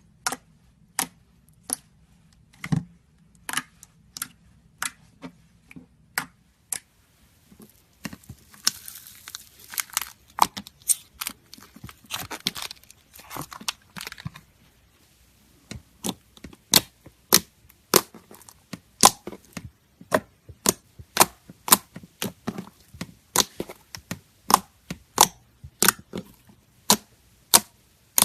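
Slime being worked by hand, giving a series of sharp pops and clicks, with a denser stretch of crackling in the middle and then fairly regular pops about once or twice a second.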